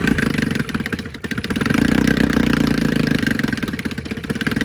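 1964 Evinrude 9.5 hp two-cylinder two-stroke outboard motor running just after a cold start without choke. It dips briefly about a second in, then settles into a steady run.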